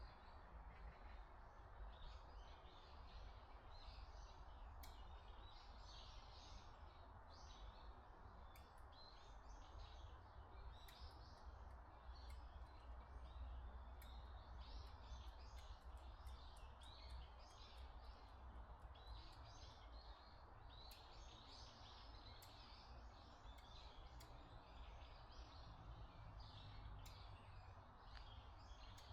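Faint, dense chorus of small birds chirping and calling continuously in a forest, over a steady low background rumble.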